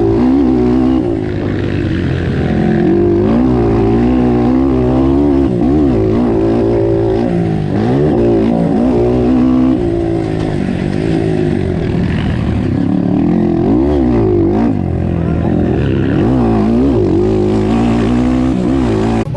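Motocross dirt bike engines running hard, their revs climbing and falling again and again.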